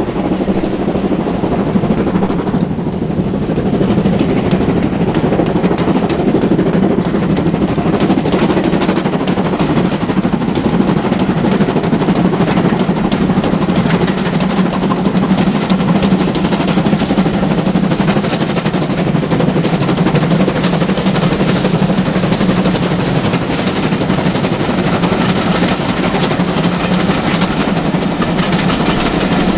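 Steam-hauled train running past, wheels clattering over the rail joints. It grows louder over the first few seconds and then holds steady.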